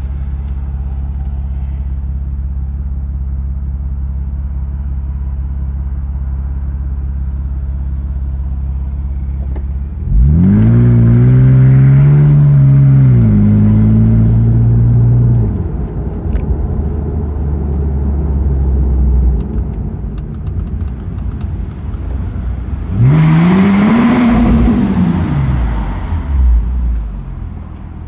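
Car engine heard from inside the cabin, idling steadily. About ten seconds in it revs up as the car pulls away, the revs falling back and holding lower for a few seconds. Later it revs up once more and eases off again.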